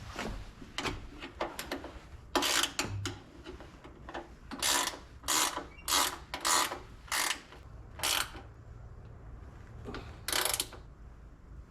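Ratchet wrench clicking in a series of short strokes, about ten in all, most in quick succession from about two to eight seconds in and one more near the end, as bracket bolts are run in.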